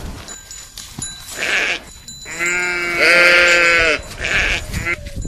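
Sheep bleating: one long bleat lasting over a second in the middle, with shorter bleats before and after it and a few brief knocks.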